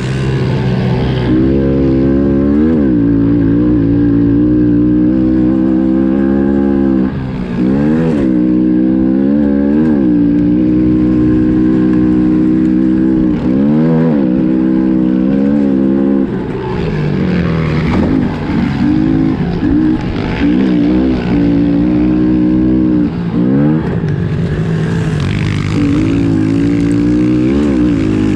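Honda CRF110F pit bike's single-cylinder four-stroke engine running at high revs under racing throttle. The pitch holds high, then dips briefly and climbs straight back several times as the throttle is chopped and reopened.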